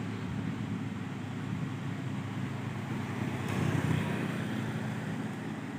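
Truck diesel engine running steadily, swelling a little louder about three and a half seconds in.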